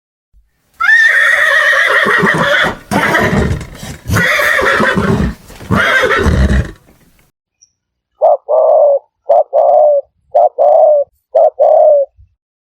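A horse neighing loudly and raggedly for several seconds. After a short pause come four short double calls, each a quick note followed by a longer one.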